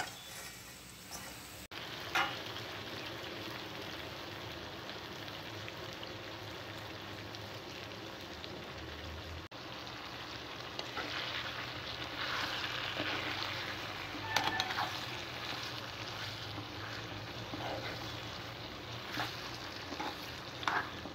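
Bottle gourd pieces frying in hot oil in a pan, a steady sizzle. In the second half there are a few short scrapes of a spatula stirring the pieces.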